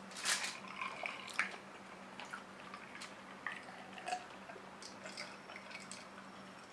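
Faint wet mouth sounds of a man eating and then drinking water from a glass: small smacks, clicks and swallows, a few louder ones in the first second or so.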